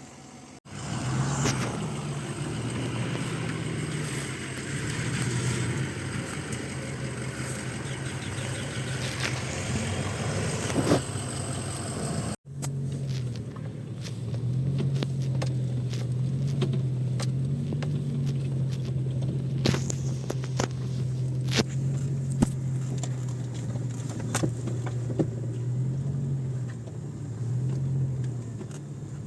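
Car engine running as the vehicle drives over rough off-road ground. Its pitch steps up and down a little, with scattered knocks and rattles over bumps. The sound cuts out abruptly near the start and again about twelve seconds in.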